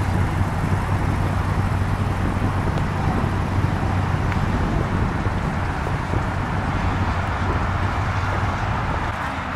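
A vehicle engine idling with a steady low hum under a wash of outdoor traffic noise.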